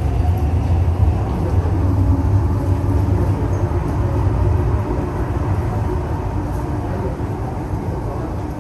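MTR East Rail Line R-train electric multiple unit running, a steady low rumble with a faint motor whine, easing off gradually over the last few seconds.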